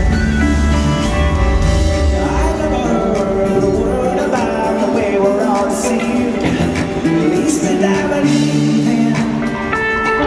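Live rock band playing an instrumental passage: an electric guitar lead with bending notes over bass and drums. The heavy low bass drops away about two seconds in.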